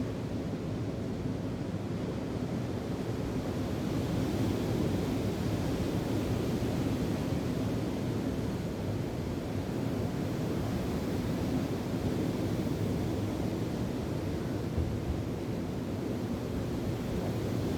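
Steady wind and ocean surf, with wind rumbling on the microphone.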